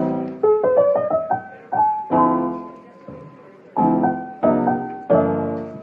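Piano music: full chords struck a few times, each dying away, with short runs of single notes in between.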